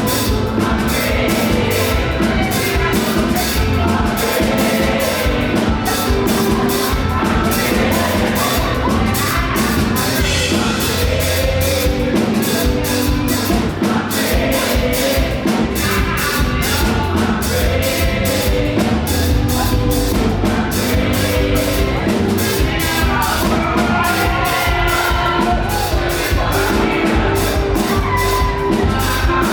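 Live up-tempo gospel praise music: a band with drum kit plays a fast, steady beat while a group sings.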